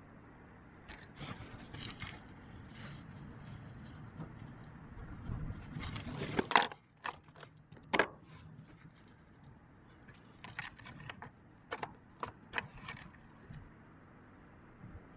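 A run of metallic clinks, jingles and knocks from keys or tools being handled, with a sharp knock about six and a half seconds in, another about a second later, and a cluster of lighter clicks near the end.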